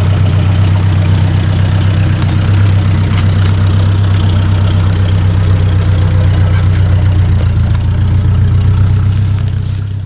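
1953 Ford Jubilee tractor's four-cylinder gasoline engine idling steadily, then shut off near the end and dying away.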